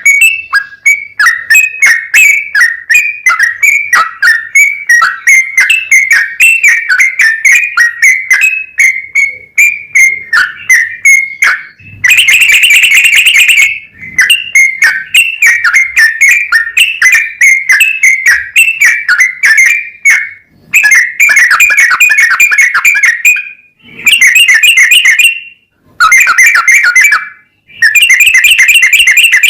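Yellow-vented bulbul (trucukan) singing a long, rapid run of quick chattering whistled notes. In the second half the song comes in dense bursts of a couple of seconds with short breaks between them.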